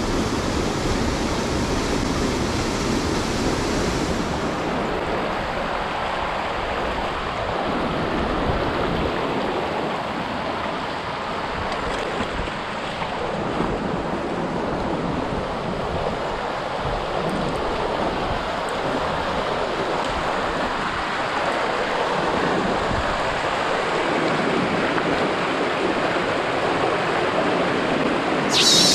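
Mountain headwater stream rushing steadily over rocks, a constant wash of running water, with a brief sharp high-pitched sound near the end.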